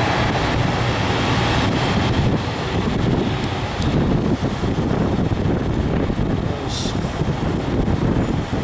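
Jet airliner engines running at a distance, a steady rush of noise, mixed with wind buffeting the microphone.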